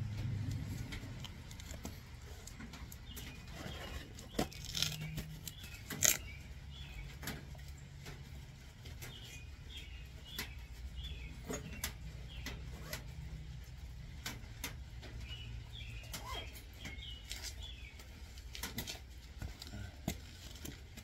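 Scattered light clicks and taps of hand work on an oil filter housing while a pick is used on its old O-rings, over a low steady hum and faint high chirps.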